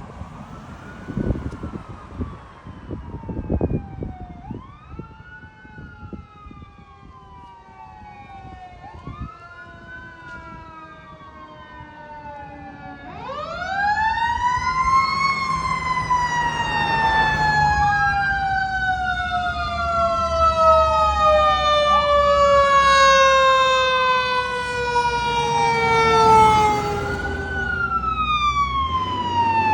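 Fire apparatus sirens on an emergency response. One siren wails in repeated cycles, each a quick rise and a long fall. About halfway through, a much louder siren starts up: it climbs fast and then falls slowly in one long descent, over the low rumble of the truck engines passing close.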